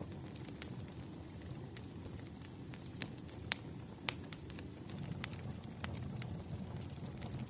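Wood fire crackling: a steady low rush of burning logs with scattered sharp pops and snaps, two of the loudest coming about halfway through.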